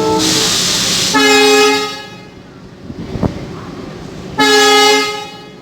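Train horn: a held note cuts off at the start, then a short burst of air hiss, then two separate short horn blasts about three seconds apart. A single knock falls between the two blasts.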